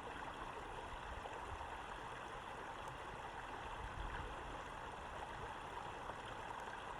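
Steady rush of running water, like a stream flowing, an even noise with no distinct bird calls.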